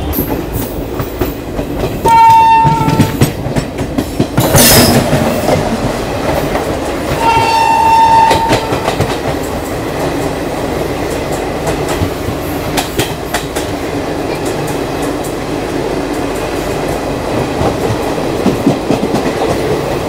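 Two train horn blasts of about a second each, a loud rush as another train meets and passes close by on the next track, then its coaches rumbling and clattering past, heard from the open door of a moving train.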